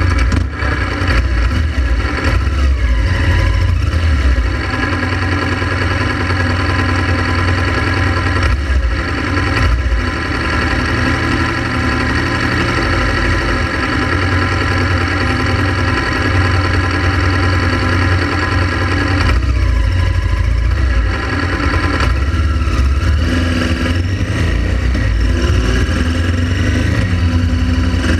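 Honda Transalp XL700's V-twin engine running steadily, with a heavy low rumble underneath.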